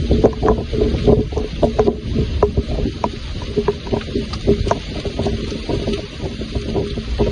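Rain falling, with many irregular drops knocking on a hard surface over a steady hiss, and a faint low hum underneath.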